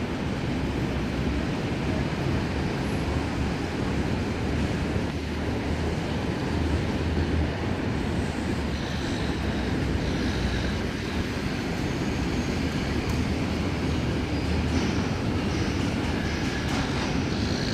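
Double-deck electric suburban train running along the tracks, with a steady low rumble from its wheels and motors.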